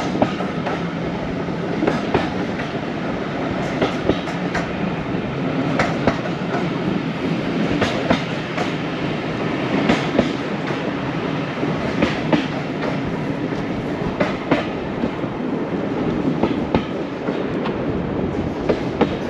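Diesel-hauled heritage passenger train running along the line: a steady rumble of the carriage with irregular clacks as the wheels pass over rail joints.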